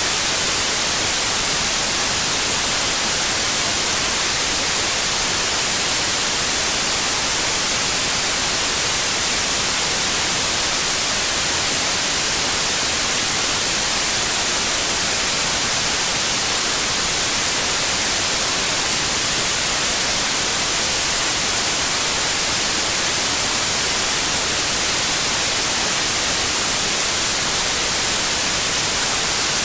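Steady white noise: an even, unbroken hiss, strongest in the high frequencies, with no changes in level.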